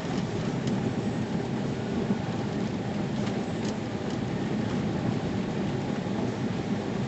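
Car driving along: a steady low rumble of engine and tyre noise, with a few faint clicks around three to four seconds in.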